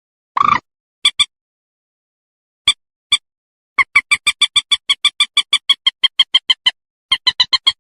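Common moorhen calling: short, sharp notes, first a few singly, then a rapid run of about five a second for some three seconds, and another quick run near the end.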